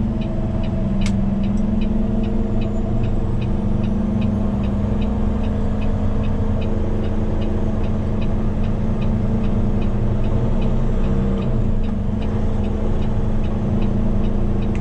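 Tow truck's engine and road noise heard from inside the cab while driving at steady speed, with a faint ticking about twice a second and one sharp click about a second in.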